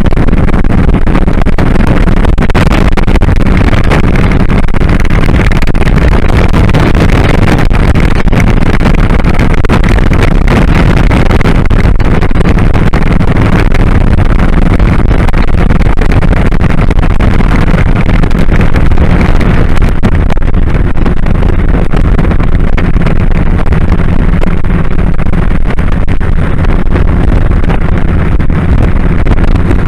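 2001 Kawasaki Drifter 1500's V-twin engine running steadily on the move, mixed with loud wind rush over the microphone.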